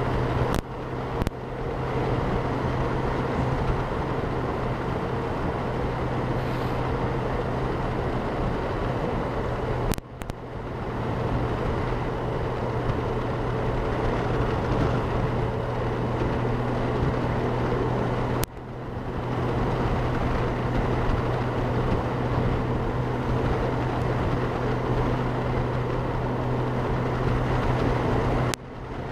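Wind rushing over a helmet-mounted microphone on a Honda Gold Wing motorcycle at road speed, over a steady engine hum. The sound drops out briefly and swells back a few times.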